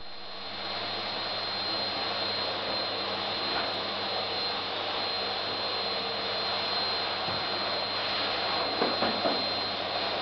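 Vacuum cleaner running steadily: a dense rushing noise with a steady high whine and a low hum. A few short bumps come near the end.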